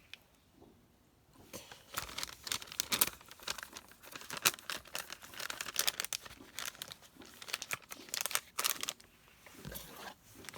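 Crinkly food packaging being handled and torn open. Irregular crackling rustles start about a second and a half in.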